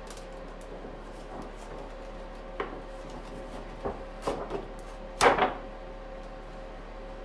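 Rubber stamps being peeled off their backing sheet and handled: a few short knocks and scrapes, the loudest about five seconds in.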